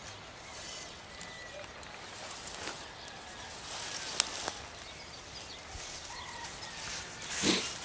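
Quiet outdoor ambience: rustling and footsteps in long grass, with faint bird calls, a sharp click about four seconds in and a louder rustle near the end.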